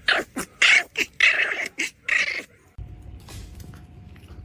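A dog vocalizing in a quick run of short, loud bursts for about two and a half seconds. It stops abruptly and gives way to a low rumbling background with a faint steady hum.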